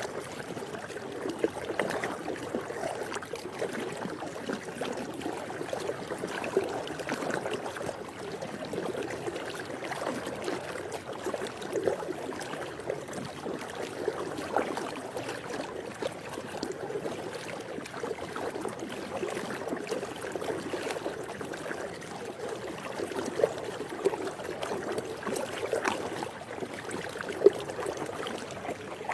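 Swimming pool water moving steadily, with small splashes now and then.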